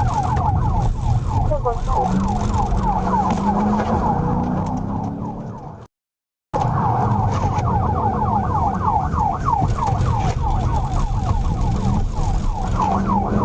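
Police cruiser siren on yelp, a fast rising-and-falling wail repeating about four times a second over engine and road noise. It fades out about halfway through, cuts to a moment of silence, then comes straight back.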